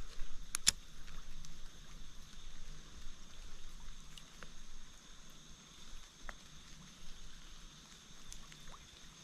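Quiet creekside outdoor ambience with a steady faint hiss, two sharp clicks about half a second in, and scattered faint ticks after them.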